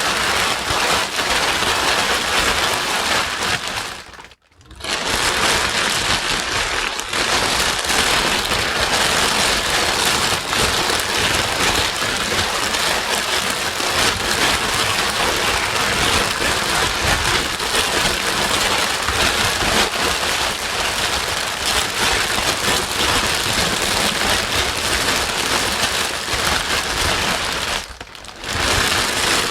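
Steady, loud white noise with a rain-like hiss, dropping out to near silence twice: briefly about four seconds in and again near the end.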